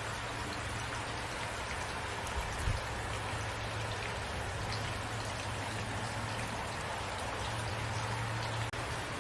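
Steady rain falling, a continuous hiss with scattered individual drops ticking through it, and a brief low thump about two and a half seconds in.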